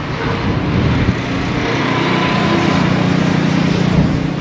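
An engine running steadily with a low hum, growing louder about a second and a half in and then holding.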